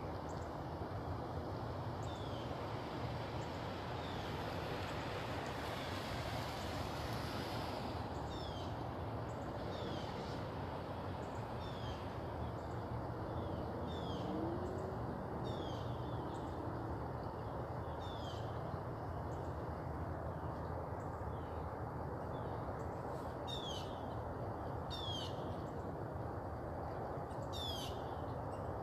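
Birds calling outdoors: short, downward-sliding chirps repeating every second or two, over a steady background hum of outdoor noise.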